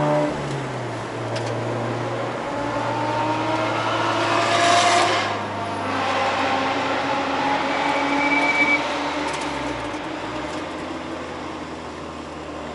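In-car sound of a Mazda RX-8's rotary engine. The revs drop sharply as the throttle is lifted, climb slowly under light throttle, then ease off as the car slows to pit-lane speed. A brief rush of noise comes about five seconds in.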